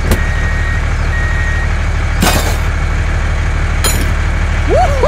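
A vehicle engine runs steadily. Two short, high, steady beeps like a reversing alarm sound in the first two seconds. A few sharp clicks follow, and a rising-and-falling tone comes near the end.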